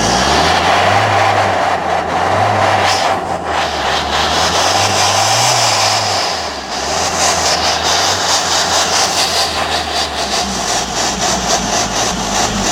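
A vehicle engine running loudly through its exhaust, blipped up and back down three times in the first half. It then settles into a fast, even pulsing exhaust note. The exhaust is very loud, called 'gone crazy'.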